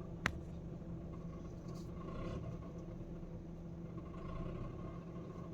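Honda City i-VTEC petrol engine running at idle with a steady low hum; the mechanic traces its diesel-like rattle to a loose, defective belt adjuster. A single sharp click about a quarter second in.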